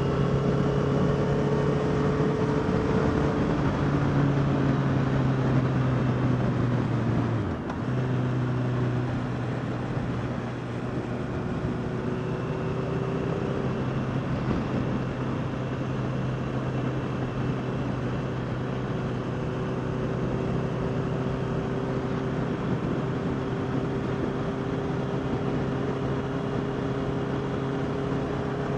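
Honda CBR650R's inline-four engine running at a steady cruise, with wind and road noise. About seven seconds in, the engine note drops sharply for a moment and then picks up again.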